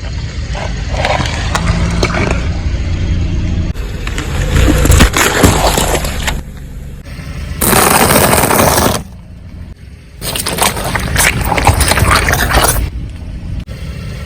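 Crunching, cracking and scraping as objects are crushed under a car's tyre, in several short bursts that start and stop abruptly, over the low rumble of the car.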